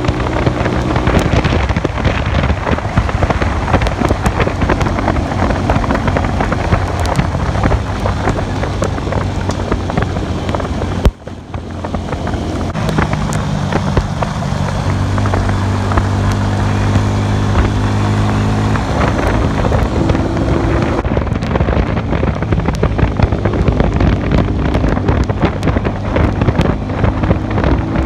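A 150 cc cafe racer motorcycle engine running under way, its pitch holding steady and then stepping up or down a few times, under heavy wind noise on the microphone. About eleven seconds in there is one sharp knock, and the sound drops away for a moment.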